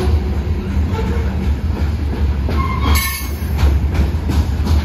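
Freight train's covered hopper and tank cars rolling past at close range: a steady low rumble with the clatter of wheels over the rails, and a brief high wheel squeal about three seconds in.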